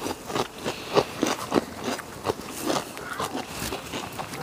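A person chewing crunchy food close to the microphone: a quick, irregular run of crunches.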